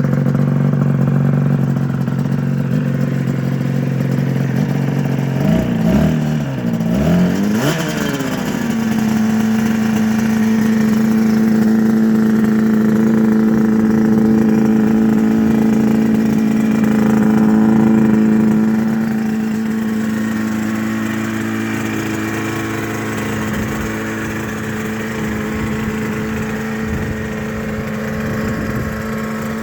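Yamaha TZR 3MA's two-stroke parallel-twin engine running cold just after starting. It idles, is revved up and down a couple of times a few seconds in, then settles into a steady idle that drops slightly in level later on.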